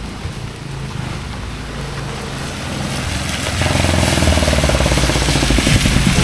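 A motor vehicle's engine running, getting louder from about halfway in.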